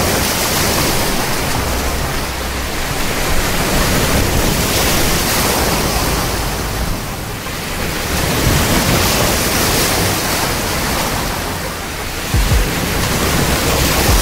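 Sea waves washing on the shore: a steady rushing hiss that swells and eases every few seconds, with a couple of low thumps near the end.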